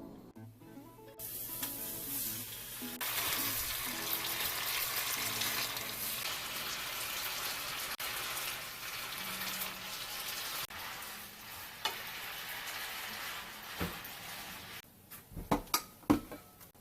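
Food sizzling and crackling in a hot pan, a steady dense hiss, then a few sharp knocks near the end.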